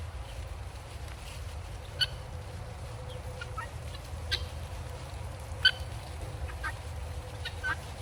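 Guinea fowl of a following flock giving short, sharp calls: three louder ones about two, four and six seconds in, with quieter chirps scattered between.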